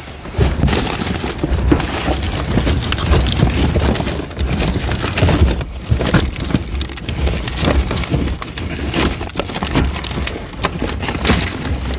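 Rummaging through a pile of junk, pulling out tangled wires and cables: a continuous dense rustling and crackling with scattered knocks.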